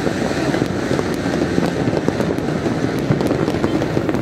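Fireworks and firecrackers going off all across a city at once: a dense, continuous crackle of many pops and bangs over a steady low din.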